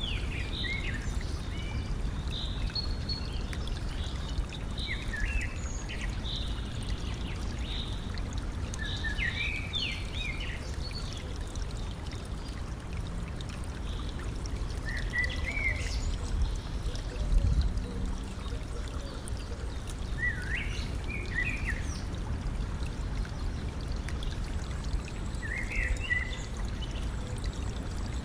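A stream trickling and running steadily, with birds giving short calls above it, most often in the first ten seconds and then in brief bursts later on. About two thirds of the way through comes a brief low rumble, the loudest moment.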